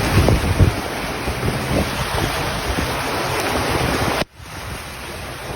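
Steady rushing storm noise of heavy rain and wind buffeting the microphone, with low rumbling gusts in the first second. It cuts off sharply about four seconds in and resumes a little quieter.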